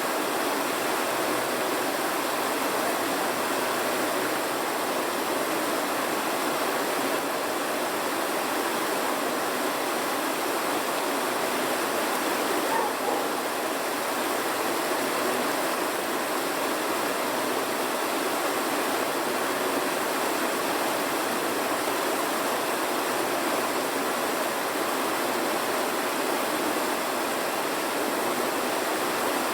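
Steady rushing noise of running water, even and unbroken, with no distinct crackles or knocks.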